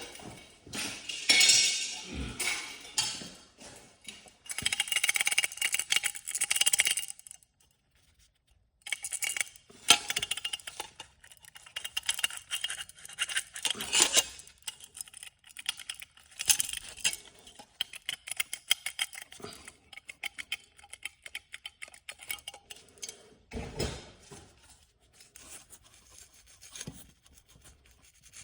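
Metal tools and garage door hardware clinking, knocking and scraping in irregular runs of sharp clicks, with a longer rasping stretch a few seconds in and a brief pause after it.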